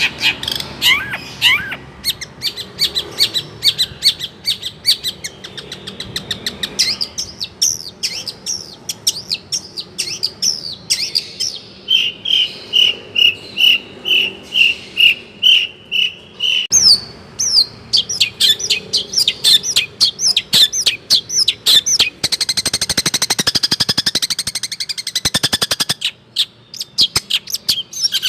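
Long-tailed shrike (cendet) singing a fast, varied song packed with mimicked calls of other birds. A little before halfway comes a run of about ten evenly repeated clear notes, and about four-fifths in a dense, rapid buzzy trill.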